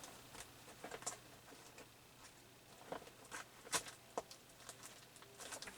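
Faint, irregular clicks and light rustling of small paper pieces being moved around on a work table during a search for a missing die-cut piece, with the sharpest tick about three and three-quarter seconds in.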